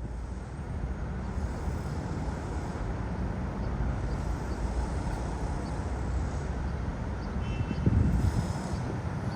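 Steady low rumbling vehicle noise with a hiss over it, with a brief louder low surge about eight seconds in.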